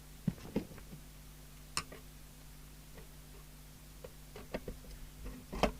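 Scattered light clicks and knocks of a screwdriver, self-tapping screws and the metal case as a CB radio is opened on the bench, the loudest knock near the end. A faint steady hum sits underneath.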